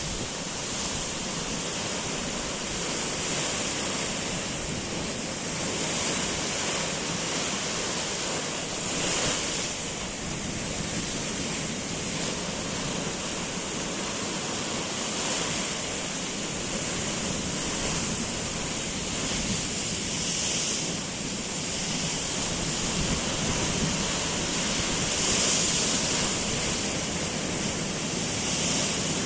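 Sea waves washing in, a steady rush of surf that swells every few seconds, with wind blowing.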